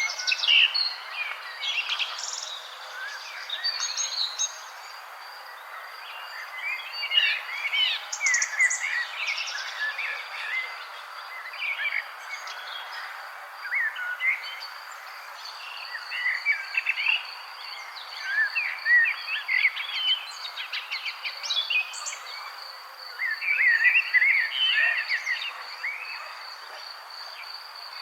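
Several birds chirping and warbling in short, varied phrases over a steady background hiss. From about a third of the way in, a steady, rapidly pulsing high trill runs underneath.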